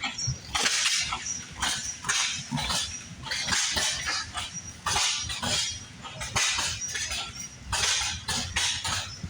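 Antique engine running, its exhaust coming in short hissing puffs about two a second, slightly uneven.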